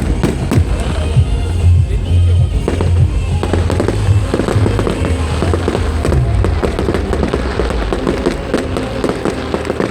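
Fireworks going off in quick succession: dense crackling and bangs over a low rumble, heaviest in the first few seconds.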